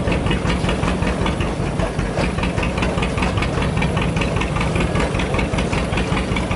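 Engine built from the front end of an old tractor, running steadily with a quick even beat, about five a second, as it drives a cedar shingle mill.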